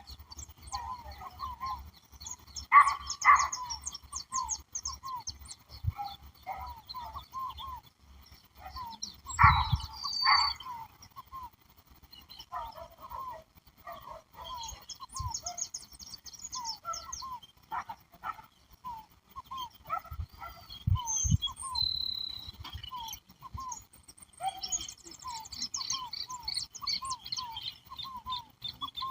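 Several wild birds calling and singing together, over a steady series of short repeated notes. A few loud, harsh calls stand out about three seconds in and again around ten seconds in.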